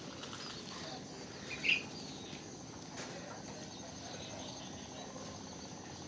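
Aviary birds giving faint scattered chirps, with one short louder call about a second and a half in, over a steady faint high insect trill.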